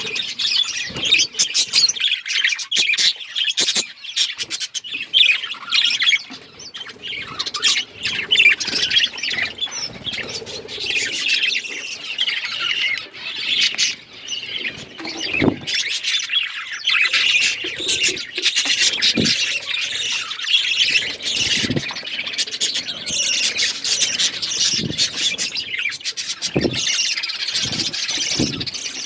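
Budgerigars chattering and chirping continuously in quick, overlapping warbles and squawks, with a few short soft thumps.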